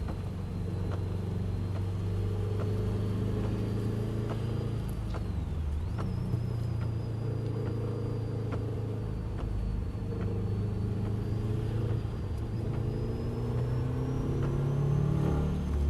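Car engine running hard on a race track, heard from inside the car. The revs dip about five to six seconds in and climb again near the end, and a thin high whine rides above the engine.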